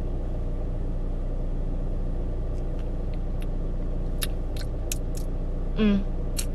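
Car engine idling, a steady low hum heard inside the cabin, with a few faint clicks from about two and a half seconds in and a short hum of voice near the end.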